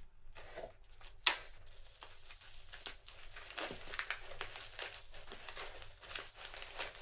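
Packaging being handled and crinkled, a run of short crackling rustles, with one sharp click a little over a second in.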